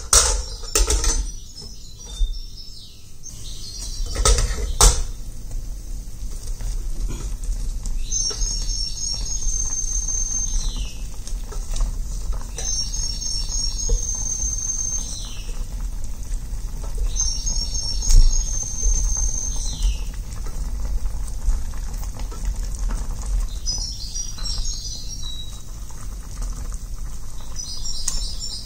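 A few knocks and clatters of kitchen utensils, then a bird singing a short high trill that ends in a falling slur, repeated about every four to five seconds. A steady low rumble runs underneath.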